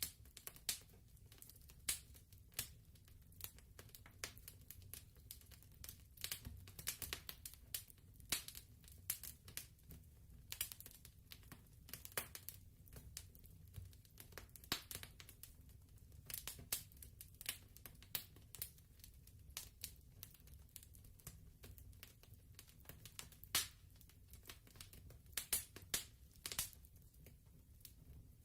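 Fireplace fire crackling softly, with irregular sharp pops and snaps over a low steady rumble.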